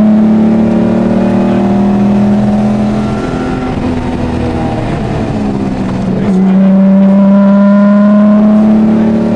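Rally-prepared Jaguar XJ6's straight-six engine heard from inside the car, pulling hard with its pitch slowly climbing, easing off for a few seconds about three seconds in, then back on the power a little after halfway and holding high revs.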